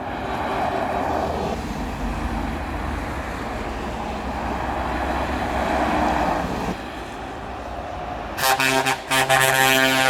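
Heavy trucks driving past in a convoy, engines and tyres passing in two swells. About eight seconds in, a truck's air horn sounds several short toots and then holds a long note.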